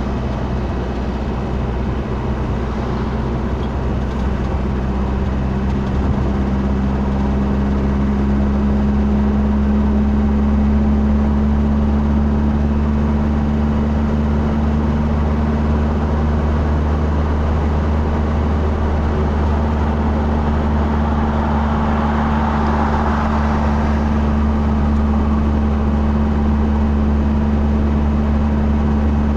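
Vehicle engine and road noise heard from inside the cabin: a steady low hum that rises slightly in pitch over the first several seconds, under a constant rushing noise.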